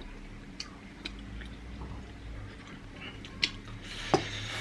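Close chewing and biting of food, with a few sharp clicks, the loudest about three and four seconds in, over a low steady hum.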